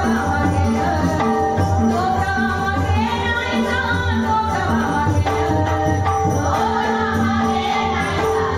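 Women singing a Marathi dabalbari bhajan, with a steady held drone, a dense drum beat and jingling percussion running under the voices.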